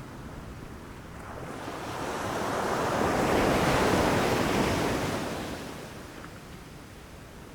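Ocean waves breaking on a beach: one wave swells to a peak about halfway through and washes out, with a steady low rumble of surf throughout.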